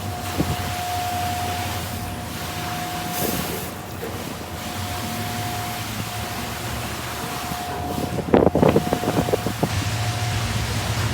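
Car wash machinery running: a steady rushing spray and motor noise with a constant thin whine, and a burst of loud knocking and rattling about eight seconds in.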